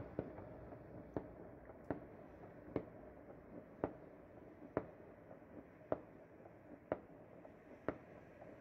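Distant New Year fireworks going off, faint sharp pops about once a second over a steady low city hum.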